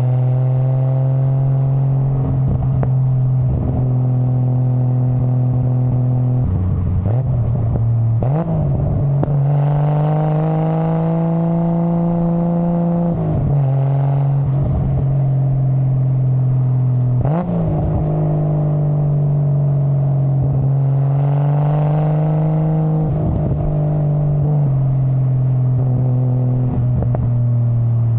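Nissan Skyline GT-R (R33) RB26DETT twin-turbo straight-six running under load on the move. The engine note climbs gently and drops sharply at several gear changes.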